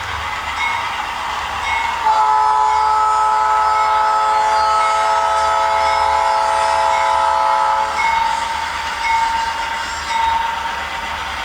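ESU LokSound 5 sound decoder in a Kato HO Dash 9-44CW model locomotive, playing its diesel engine running sound through the model's small speaker. About two seconds in, the horn sounds one long blast, a chord of several notes held for about six seconds, then cuts off suddenly.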